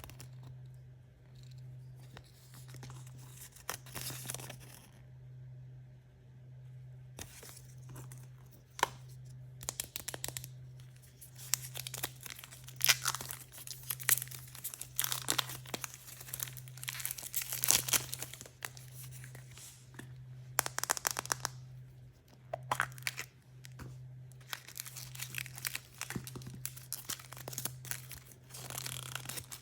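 Plastic and foil wrappers of surprise toys being torn open and crinkled by hand, in irregular bursts of tearing and crackling with sharp clicks, busier in the second half. A steady low hum runs underneath.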